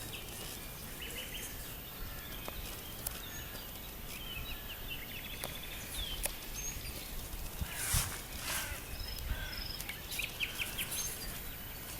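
Small songbirds chirping and trilling, many short calls scattered throughout, over a steady outdoor hush, with a brief louder noise about eight seconds in.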